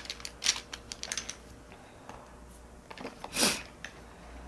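Light clicks and taps from makeup being handled at the face, about a second and a half of them, then one short breathy rush of air about three and a half seconds in.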